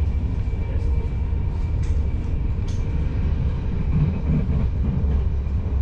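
Running noise of a moving ICRm passenger coach heard from inside: a steady low rumble of wheels on rails, with a few faint clicks.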